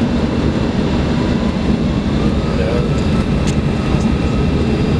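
Steady rumble inside the cabin of an Embraer 170 regional jet, its GE CF34 turbofans running, with a faint high click about three and a half seconds in.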